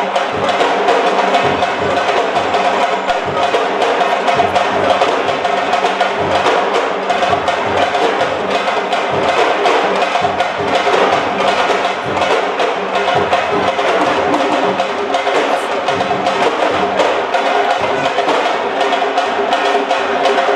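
Fast, dense drumming with a steady tone running under it, going on without a break.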